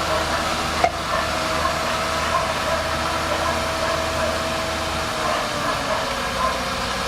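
Bulldozer's diesel engine running steadily, its pitch dropping slightly about five seconds in, with one sharp click about a second in.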